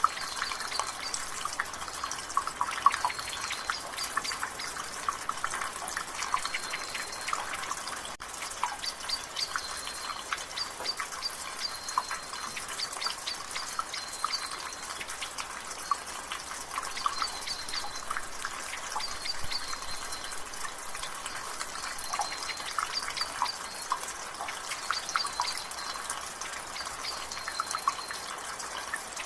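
Water dripping and splattering from a rain gutter in many irregular drips over a steady hiss of rain. A bird's short high call repeats every second or two in the background.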